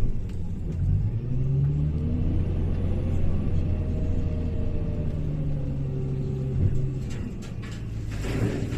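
Hyundai HL780-7A wheel loader's diesel engine running, its pitch rising and falling as it revs and eases off while working. A few short knocks come near the end.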